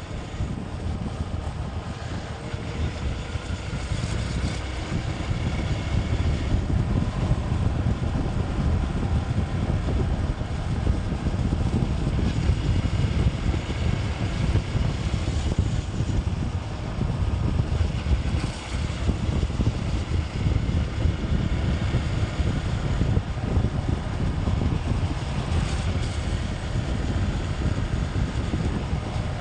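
Motorcycle running at road speed, with wind rushing over the microphone as a steady low rumble.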